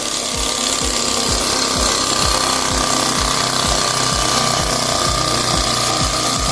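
Small model engine running, with a steady, rapid knocking rhythm of about four knocks a second.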